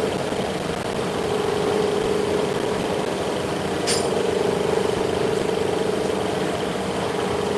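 Steady mechanical hum of a running machine, with one short sharp click about four seconds in.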